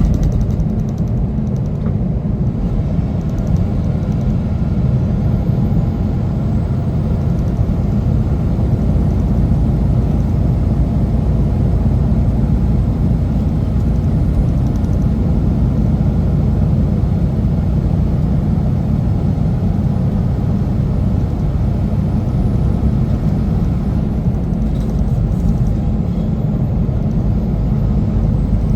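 Semi truck driving with its engine and road noise making a steady, low drone that holds unchanged throughout.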